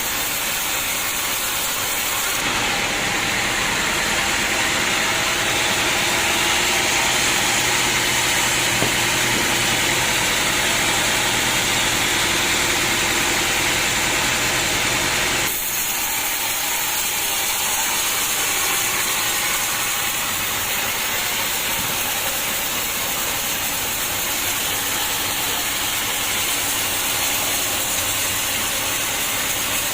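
Sawmill running with a steady, loud, hissing machine noise, with an abrupt change in the sound about fifteen seconds in.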